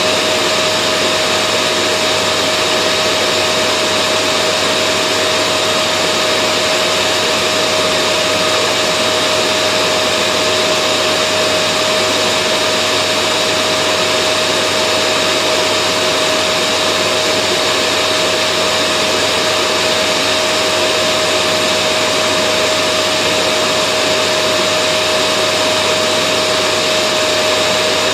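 Vacuum cleaner running steadily: an even rush of air with a constant motor hum and a fainter high whine above it, never changing in pitch or level.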